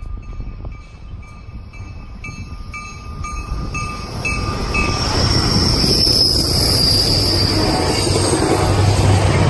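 Regular dinging about twice a second from a crossing warning bell, then a Caltrain commuter train, cab car leading, passing through without stopping. Its rail and wheel noise builds from about four seconds in, with a high wheel whine, and the low hum of the trailing diesel locomotive comes in near the end.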